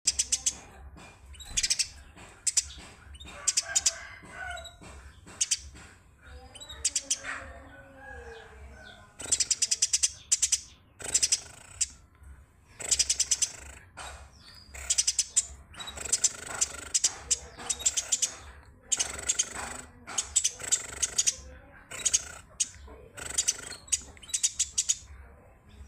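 Eurasian tree sparrow chirping in repeated bursts of quick, sharp chirps, some bursts running on for a few seconds, with short pauses between them.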